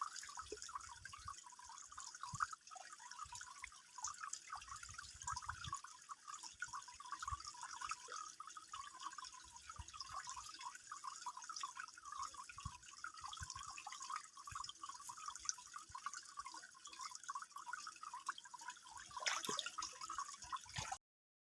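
Faint water trickling and dripping, a steady dense patter with a few soft low knocks and a slightly louder bump near the end.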